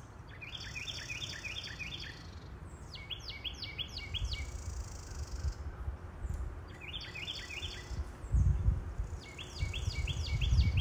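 A songbird singing four short phrases, each a quick series of high notes sweeping downward, spaced a few seconds apart. Under it a low rumble swells about four seconds in and grows louder about eight seconds in.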